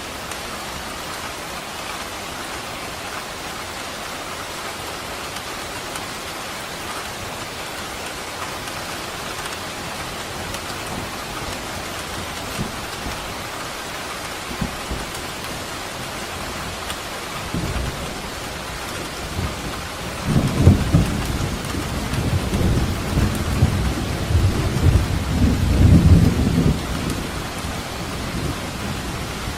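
Steady rain falling on surfaces. About two-thirds of the way in, a low roll of thunder builds, rumbles loudest for several seconds and then fades.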